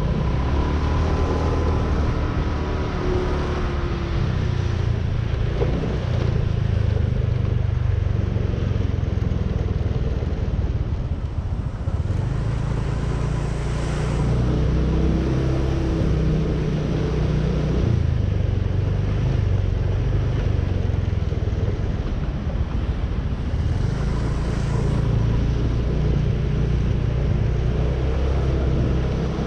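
Motorcycle engine running under way, its low note stepping up and down a few times as the speed changes, over a steady rush of road and wind noise.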